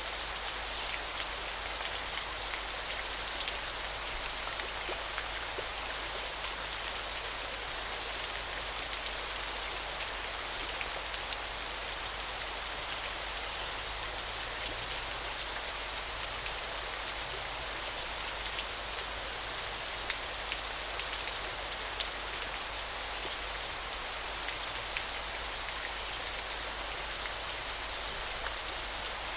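River water flowing, a steady even rushing and splashing. From about halfway on, a high thin buzzing note comes and goes in spells of two or three seconds.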